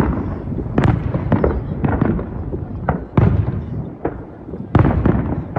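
Aerial fireworks bursting in a rapid series of booms, each with a rumbling echo, about one every half second. The strongest bangs come about a second in and again near the end.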